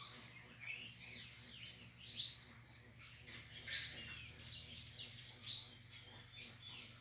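Songbirds singing: a busy run of short, high chirps and whistled notes, some rising and some falling, one after another.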